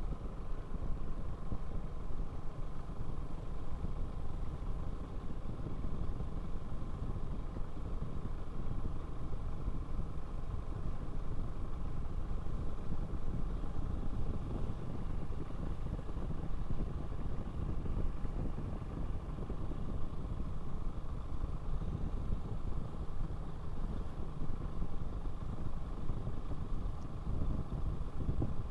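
Motorcycle riding along: steady engine and road noise, heaviest in the low rumble, with no sudden changes.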